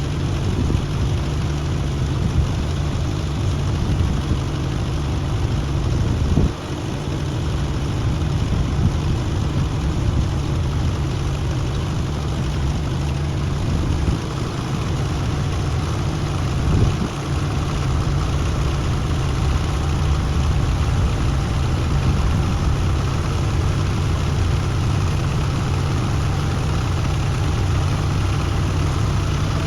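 Heavy diesel engine idling steadily, its energy mostly low in pitch, with two brief dips in level about six and a half and seventeen seconds in.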